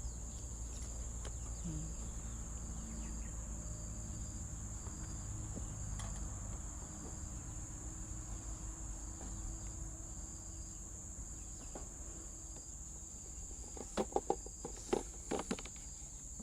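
Steady high insect chirring, with a second faint call pulsing about once a second. Near the end, a quick run of sharp clicks and knocks.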